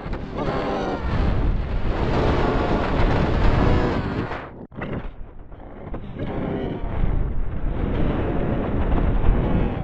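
Loud, heavily distorted rumbling with a deep, booming low end, cut off briefly about halfway through before it resumes.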